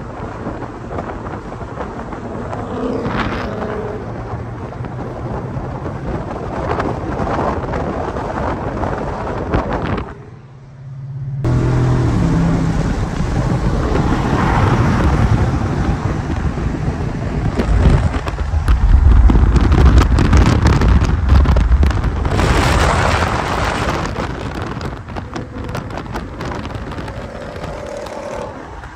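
Car engine and exhaust rumbling while driving, with wind buffeting the microphone. It drops out briefly about ten seconds in, and the rumble is deepest and loudest around twenty seconds in.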